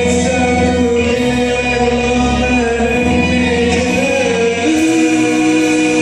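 Group singing in rehearsal: a voice holds long, slightly wavering notes over a sustained low bass, dropping to a lower held note about three-quarters of the way in.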